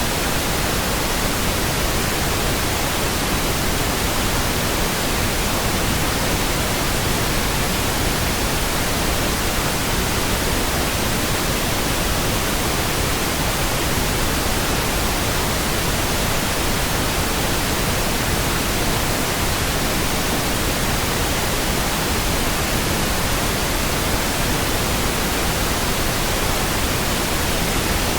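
Steady synthetic pink noise: an even, unchanging hiss across the whole range of pitch, with no tones, clicks or breaks.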